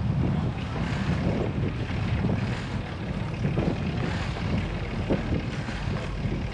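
Wind buffeting a GoPro's microphone while cycling: a steady low rumble.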